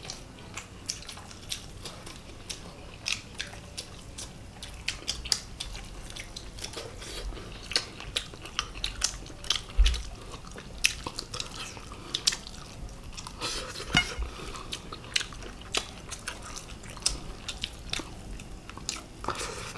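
Close-up eating sounds of people eating chicken and rice by hand: wet chewing and many quick irregular mouth clicks and smacks, with occasional clinks of cutlery on ceramic plates and a couple of dull knocks.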